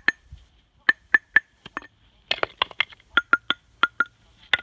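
Hammer striking a rough Japanese natural whetstone (Kyoto Okudo / Renge su-ita stone): a quick string of about fifteen sharp, clinking strikes, each with a short ring, the ring a little lower in the second half. The blows sound out the stone's layers to find the weakly bonded planes where it will split.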